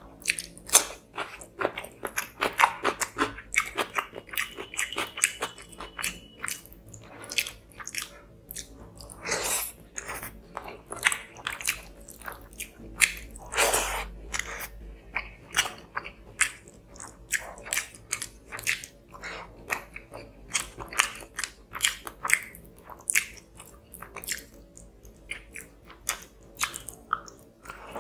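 Close-miked eating: a bite into a raw cucumber slice and crunchy chewing, with many irregular crunches and clicks, then wet chewing and mouth smacking of rice and fish curry eaten by hand.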